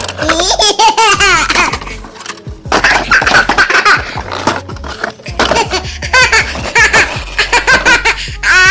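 High-pitched laughing and giggling in many short bursts, over background music.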